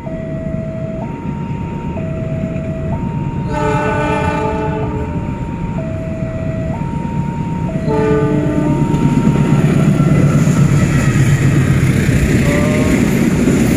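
Level-crossing warning alarm alternating between two tones about once a second, over the approach of a CC206 diesel locomotive hauling a container freight train. The locomotive's horn sounds two blasts, the first a few seconds in and a shorter one about eight seconds in. The train then passes with a loud, growing rumble of the locomotive and wagons rolling by, and the alarm stops about two-thirds of the way through.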